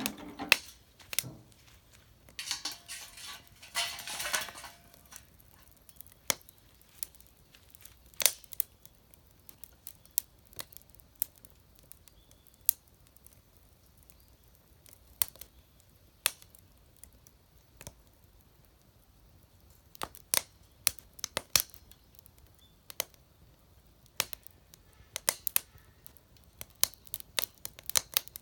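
Wood fire crackling in a homemade fire pit: scattered, irregular sharp pops and clicks, with a short stretch of rustling about three to five seconds in.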